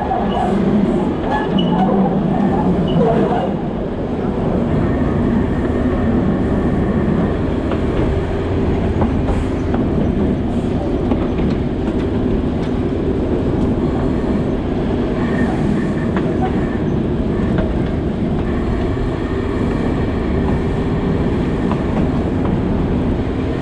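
Alishan Forest Railway narrow-gauge train running steadily along the track: a continuous rumble of wheels on the rails under a low, steady hum, with scattered clicks from the running gear.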